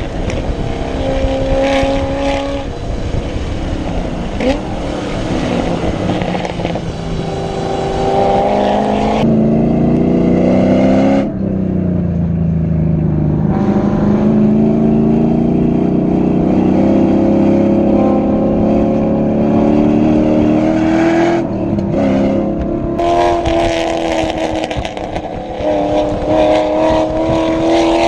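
The 400 hp LS1 V8 in a BMW E30 race car running hard on track. Its pitch climbs under acceleration through the gears and drops sharply twice, about a third of the way in and again about three-quarters of the way in, where it lifts off or shifts before pulling up again.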